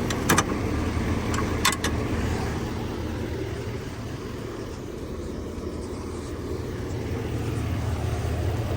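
Heavy-duty pickup truck engine idling steadily, with a few sharp clicks in the first two seconds.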